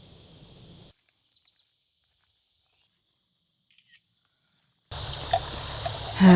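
Insects trilling and buzzing: a thin, steady, high-pitched trill over a quiet stretch. About five seconds in, a much louder insect chorus with a rush of water under it starts abruptly.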